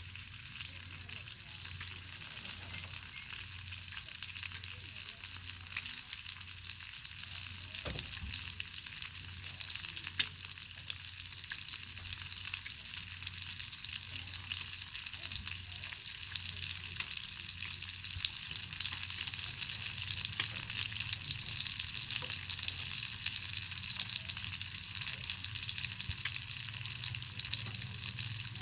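Bacon sizzling in a pan over a crackling fire: a steady sizzle full of small crackles, with three louder sharp pops along the way.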